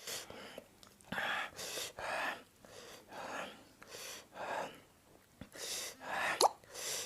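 A person breathing hard, hissing air in and out through the mouth about ten times, with a sharp gasp and a brief rising squeak near the end: the reaction to the chili burn of an extremely hot chip.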